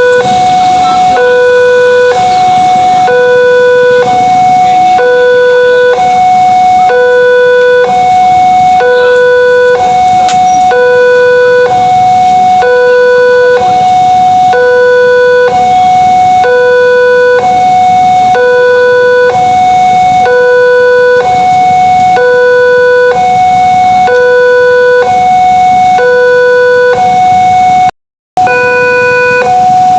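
Railway level-crossing warning alarm sounding: a loud electronic two-tone chime, a low and a higher note alternating about once a second, with a short break near the end.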